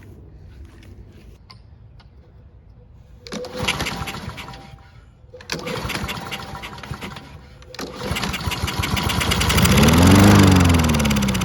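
Honda HRR216 lawn mower engine being pull-started: it fires and sputters briefly twice, then catches on a third pull, revs up and drops back. It is struggling to start on fuel left in the carburettor for four years.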